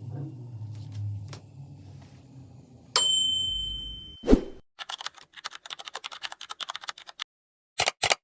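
A single bright bell ding that rings and fades, a thump, then a fast run of typing-like clicks lasting about two and a half seconds, with two more clicks near the end.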